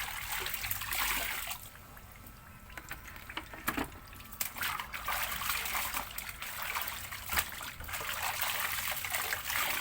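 Water sloshing and splashing as clothes are washed by hand in a basin, in repeated swishes with a quieter stretch of a couple of seconds near the start.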